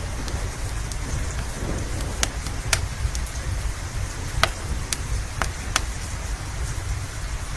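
Steady rain over a low rumble, with a wood fire crackling: irregular sharp pops every second or so.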